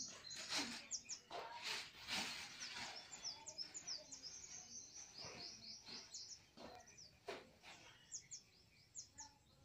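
Small birds chirping, many short high-pitched chirps in quick succession, faint, with a few soft knocks here and there.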